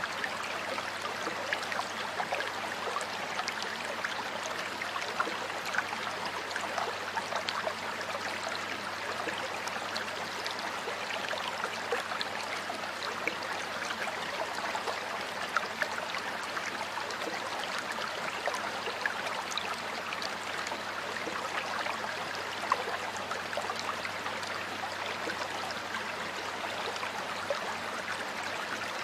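Water flowing in a stream: a steady rush with many small splashes and trickles.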